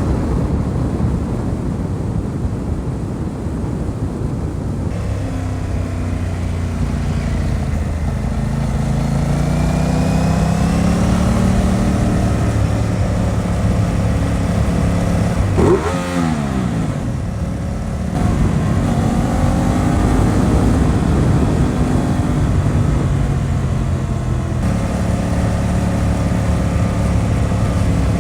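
Aprilia RS 660's parallel-twin engine under way, revs climbing again and again as it accelerates, over steady wind rush. About sixteen seconds in the pitch drops sharply and swings straight back up.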